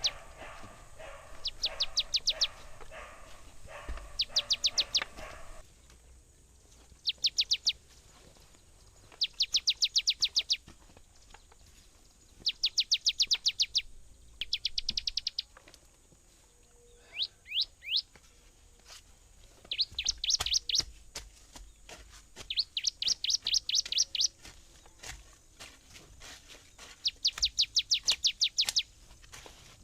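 A songbird singing repeated phrases, each a rapid run of high chirps about a second long, coming every two to three seconds. A lower, even drone sits under the first five seconds and then stops.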